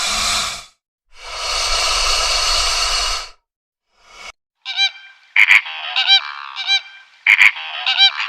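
Animal calls: two long, rough calls, then, after a short pause, a rapid run of short, chirping calls.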